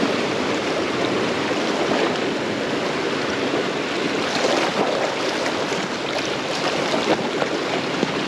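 Ocean surf washing in along the shore: a steady rushing of water, with a few faint short clicks about halfway through.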